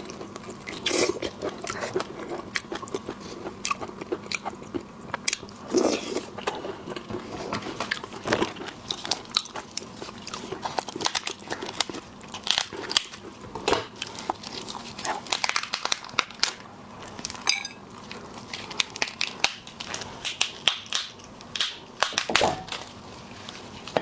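Close-miked eating of lobster in chili oil: repeated crunching bites and wet chewing, with many sharp cracks, some louder than the rest.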